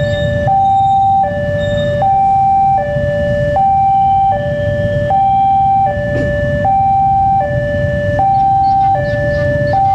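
A two-tone electronic warning alarm alternating steadily between a higher and a lower note, each held about three-quarters of a second, over a low rumble.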